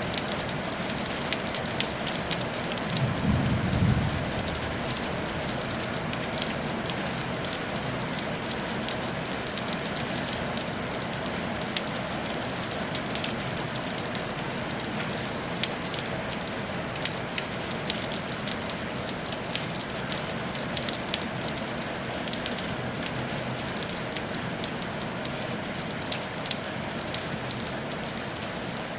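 Steady rain falling on a tile roof, a dense even patter of many drop impacts. About three seconds in comes a brief low rumble, the loudest moment.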